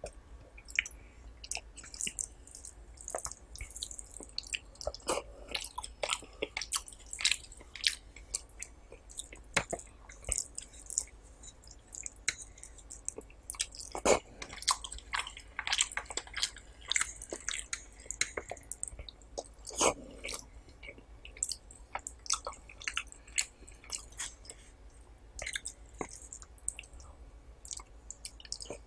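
Close-miked chewing of rice and curry: a steady run of wet mouth smacks and soft clicks, uneven in rhythm, with a few louder bites.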